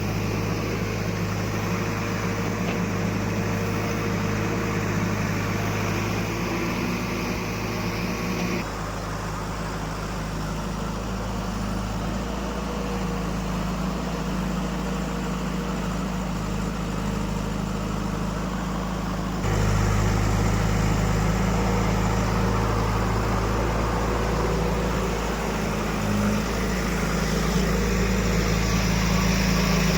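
Diesel engines of a backhoe loader and tractors running steadily. The tone changes abruptly twice, about nine seconds in and again at about nineteen seconds.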